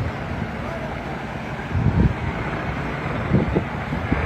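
Truck engine running steadily, with a few short low thuds about two seconds in and again near the end.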